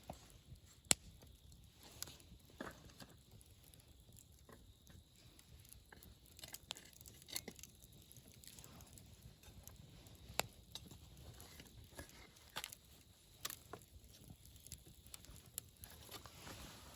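Wood fire crackling: irregular pops and snaps of burning wood over a low hiss, with a sharp pop about a second in.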